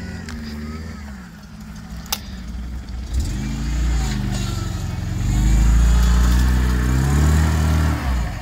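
An off-road 4x4's engine revving as it works through mud, its pitch rising and falling and loudest in the second half before easing off just before the end. There is a sharp click about two seconds in.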